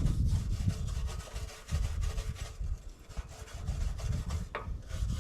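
Small hand wire brush scrubbing rapidly back and forth over a backhoe's metal tank, scraping off caked dirt and oily grime.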